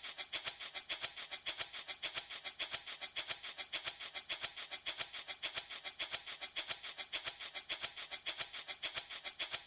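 Handmade wooden baby rattle shaken steadily back and forth, a dry rattling at about six shakes a second, with louder and softer strokes alternating.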